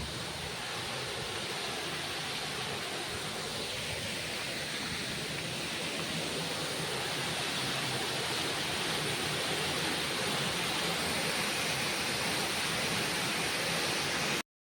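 Waterfall: a steady rush of falling water that grows slightly louder and cuts off suddenly near the end.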